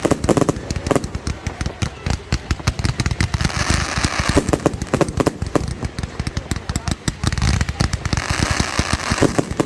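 Fireworks going off in rapid, crackling volleys of pops and bangs.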